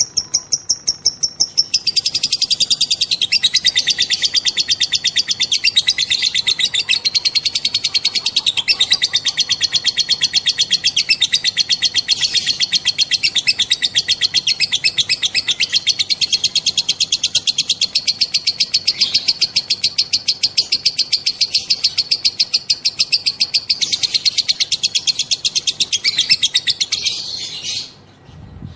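Female lovebird's 'ngekek' song: a long, fast, unbroken chattering trill of high, rapid notes. It begins after a few separate chirps and breaks off shortly before the end.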